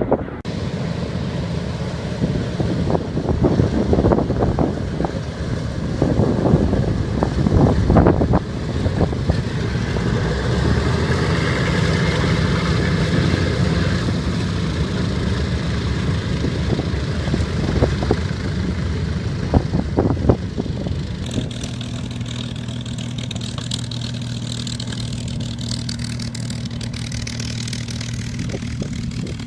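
Vintage WWII-era piston aircraft engines running, with gusts of wind buffeting the microphone over the first several seconds. About two-thirds of the way through the sound settles into a steady, even drone.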